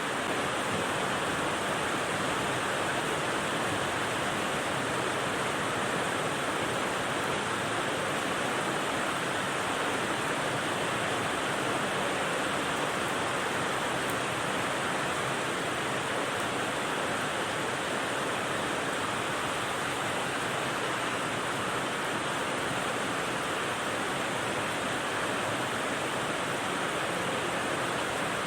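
Steady, unbroken rain white noise: an even hiss with no separate drops or changes.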